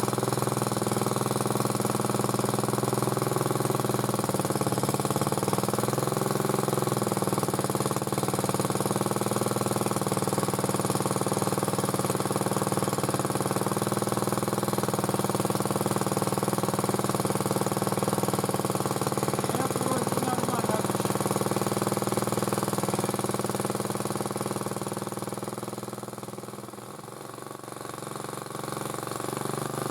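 MTD motor cultivator's small four-stroke single-cylinder engine running steadily. It grows quieter for a few seconds near the end, then comes back up. The owner suspects one of its valves is tapping.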